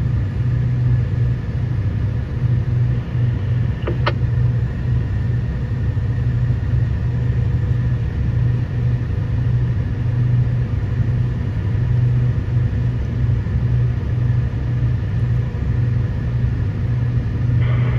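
Heavy mining machine's diesel engine running steadily, heard as an unchanging low drone. A single short click comes about four seconds in.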